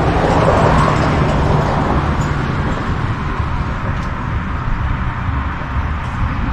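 Electric motor of a truck-bed wheelchair crane hoisting an empty wheelchair, a low hum over a steady rumble; the hum is strongest in the first two seconds.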